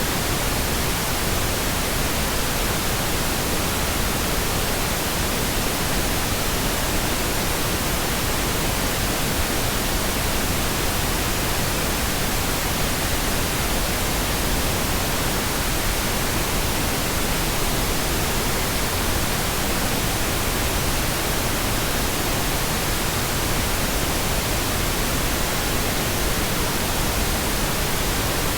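Steady, unbroken pink noise: an even hiss spread across all pitches, with no changes or breaks.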